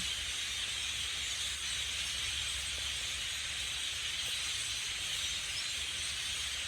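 A large flock of blackbirds calling all at once in the trees, their many voices blending into a dense, steady chattering wash.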